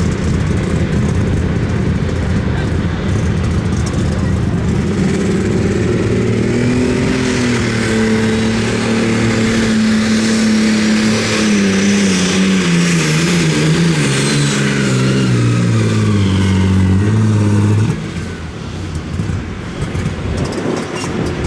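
A pulling tractor's engine runs wide open under load, with a high whine rising and then falling over it. The engine's pitch sinks steadily over several seconds as it lugs down, then the engine is shut off abruptly near the end.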